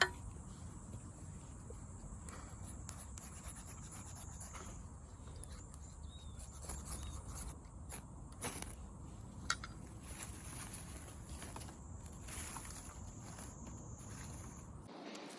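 Quiet outdoor fire-making sounds: sparse, faint crackles and light scraping of wood, over a steady high insect-like buzz that stops near the end, and a low rumble.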